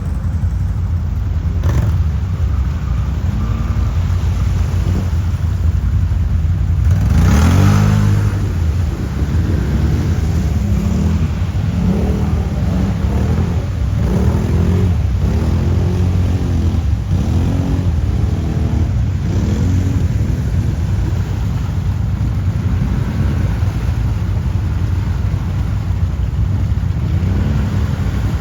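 Quad (ATV) engine running with the throttle opened and eased off again and again, its pitch rising and falling over a steady low rumble. It gives one strong acceleration near the start, then a string of quick revs and let-offs.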